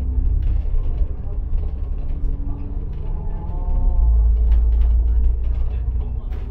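Bus engine and road noise heard from inside the moving bus's cabin: a steady low rumble that swells for a couple of seconds midway, with small rattles and ticks on top.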